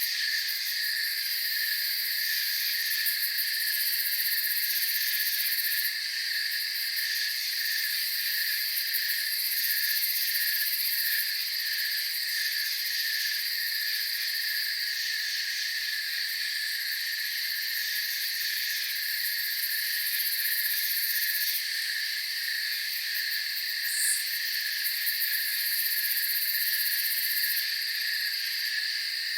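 Night chorus of crickets: several layers of steady trilling at different pitches, one lower song pulsing evenly, with a couple of brief higher chirps near the end.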